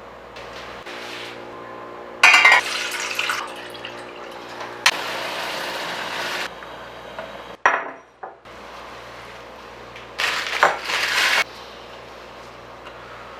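Kitchen sounds: three short spells of pouring or running water with clinks of glass and dishware.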